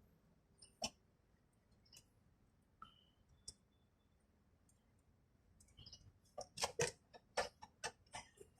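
Scattered faint clicks, then from about six seconds in a quick run of sharper clicks and knocks, like small metal parts and hand tools being handled.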